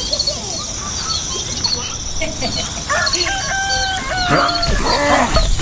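Birds chirping in quick, repeated short calls over a steady high hiss, with a rooster crowing in longer held calls from about three seconds in.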